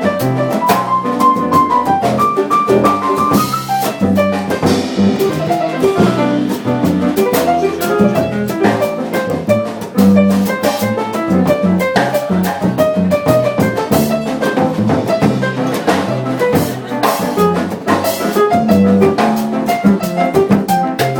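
Live Latin jazz band playing an instrumental passage in a changüí arrangement, with drum kit and percussion driving under pitched instruments.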